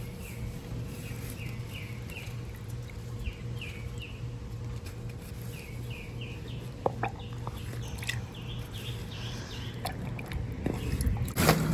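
A bird calling in a run of short, falling chirps, a few a second in uneven groups, over a steady low hum, with a few light knocks about seven seconds in.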